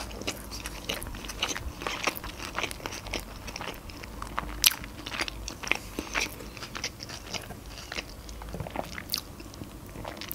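Close-miked chewing of a mouthful of sushi roll: wet mouth sounds with many short clicks, the sharpest about four and a half seconds in.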